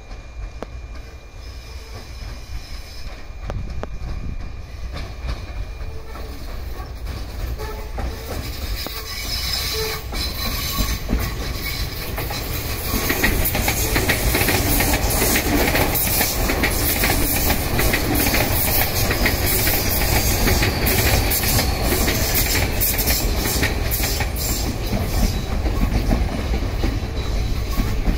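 A Tokyu 5000-series electric train passing close on the track. It grows louder, is loudest from about halfway, and its wheels clack rapidly over the rail joints.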